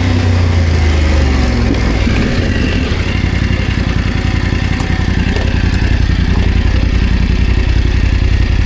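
BMW F 900 GS parallel-twin engine running down over the first few seconds, then idling with a steady, even pulse.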